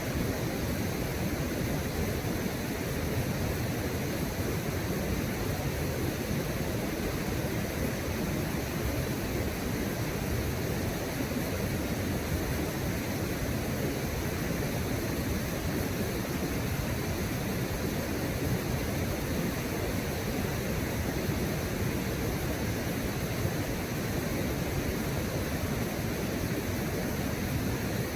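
Steady rushing of river water, an even noise with no breaks or changes.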